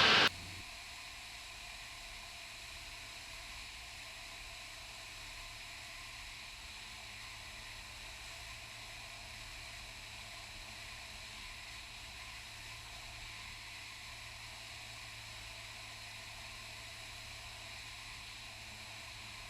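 Steady low hiss and hum of a light aircraft's cockpit intercom audio in cruise, with the engine only faint beneath it. A loud burst of radio noise cuts off just at the start.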